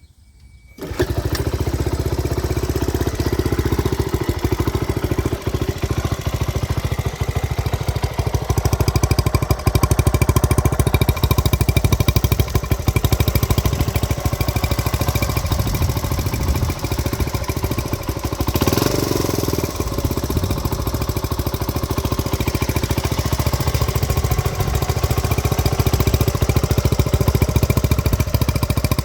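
1970 Honda CT70H's small single-cylinder four-stroke engine starting from cold, catching about a second in and then running with a fast, even putter. The revs rise briefly a little under two-thirds of the way through.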